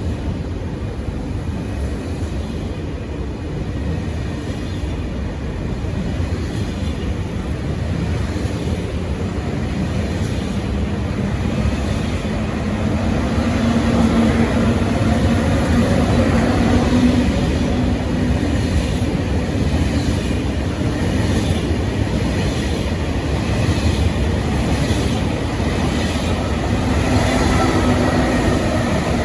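High-speed TGV electric train running past, a steady rumble that swells past the middle with a humming tone, and a run of evenly spaced clicks from the wheels in the second half.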